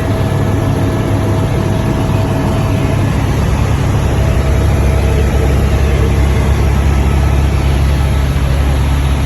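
Helicopter engine and rotor noise: a loud, steady low drone that stays even throughout.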